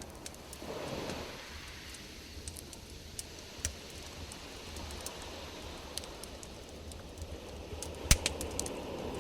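Campfire crackling: scattered sharp pops and snaps, with one louder crack about eight seconds in, over a low steady rumble.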